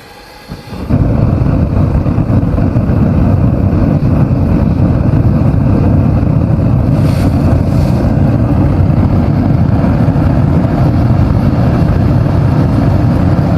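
Knifemaking shop equipment running with a loud, steady low roar that starts about a second in.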